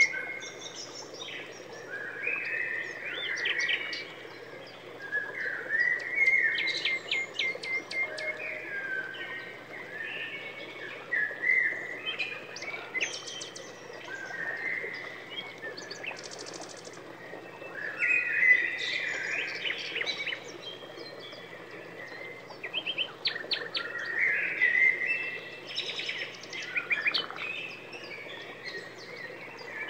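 Songbirds chirping and singing: a busy run of short chirps, whistles and rapid trills that goes on without a break.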